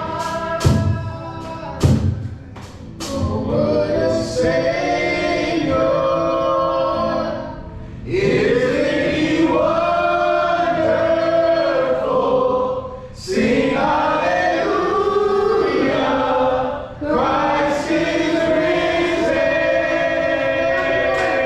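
A group of voices singing a worship song together in long phrases, with brief pauses between them. There are a few sharp hits in the first two seconds.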